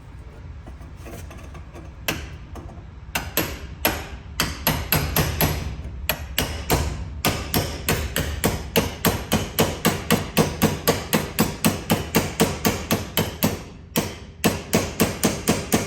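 Hammer blows, straightening part of the truck's exhaust. They start about two seconds in as scattered strikes, settle into a fast run of about four blows a second, stop briefly near the end, then go on.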